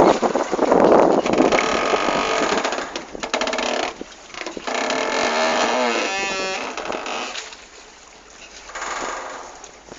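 Boat on the water with rushing wind and water noise. About halfway through comes a pitched sound that rises and wavers, and things quiet down in the last few seconds.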